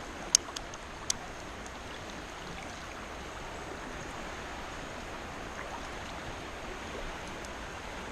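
Steady rush of a fast-flowing creek's current, with two sharp clicks in the first second or so.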